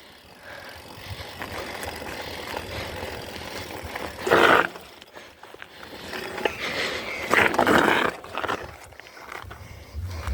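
Mountain bike riding down a dirt trail: tyres on dirt and the bike rattling, with louder rushes of noise about four and seven seconds in.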